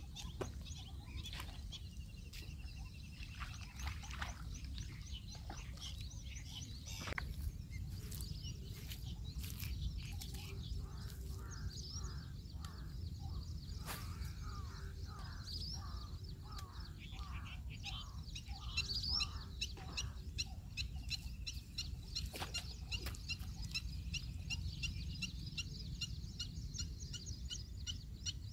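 Birds chirping and calling, with a run of quick repeated lower notes through the middle, over a steady low rumble and a few sharp clicks.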